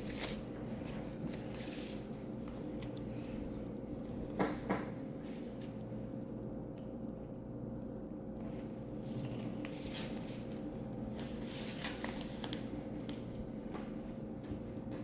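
A vinyl LP and its sleeve being handled, with soft rustling and scraping of paper and card as the record is worked back into its jacket. Two light knocks about four and a half seconds in are the loudest sounds, over a steady low hum.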